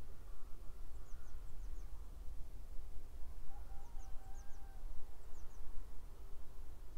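Outdoor countryside ambience: small birds giving short high chirps in quick runs of two or three, over a steady low rumble, with a faint drawn-out call about halfway through.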